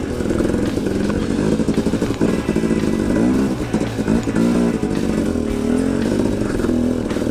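Two-stroke KTM 250 XC-W dirt bike engine revving up and down in quick throttle bursts as it is ridden through a rough trail section.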